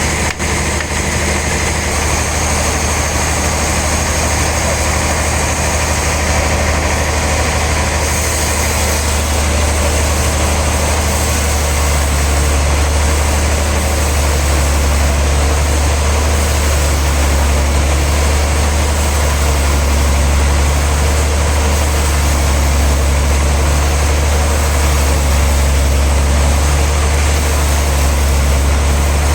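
Sawmill machinery running steadily with a strong, continuous low hum. The tone shifts slightly about eight and twelve seconds in.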